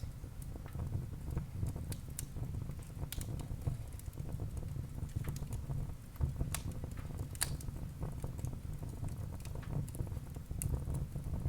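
Wood burning in a fireplace: irregular sharp crackles and pops a few times a second over a steady low rumble.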